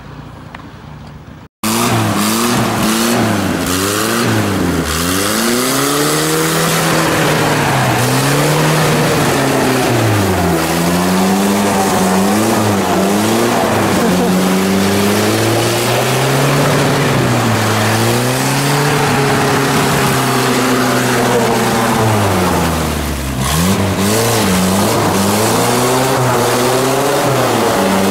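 Off-road 4x4's engine revving up and down again and again as it spins its wheels on ice, the pitch rising and falling every couple of seconds. It starts abruptly about a second and a half in.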